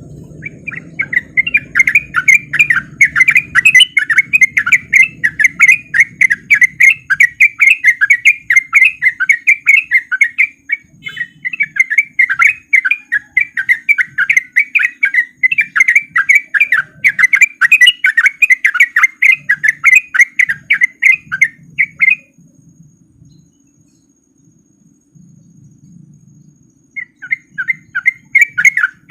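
Yellow-vented bulbul (trucuk) singing a fast, continuous run of chirping notes, about four a second. It breaks off briefly about ten seconds in, stops for several seconds about two-thirds of the way through, then starts again near the end.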